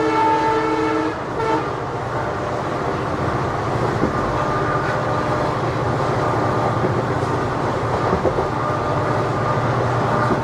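Train horn sounding and cutting off about a second in, followed by the steady rumble and clatter of a train running on the track.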